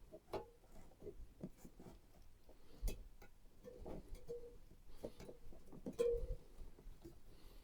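Irregular small clicks, taps and rustles of hands handling PC parts during assembly, with brief squeaks about four and six seconds in.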